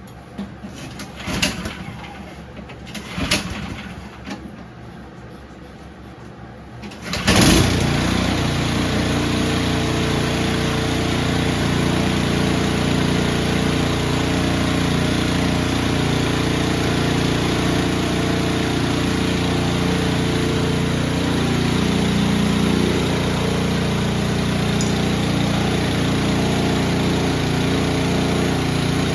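A few sharp knocks, then the snowblower's Powermate 208cc overhead-valve engine starts with a sudden burst about seven seconds in and runs steadily.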